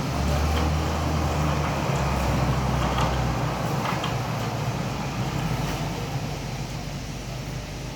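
Motorcycle engine of a kiddie floor train running with a steady low hum, its lowest note shifting twice in the first few seconds and dropping away a little after three seconds.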